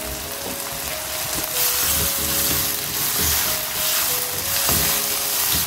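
Sliced vegetables and sauces sizzling in a hot wok while a spatula stirs and tosses them, a steady frying hiss.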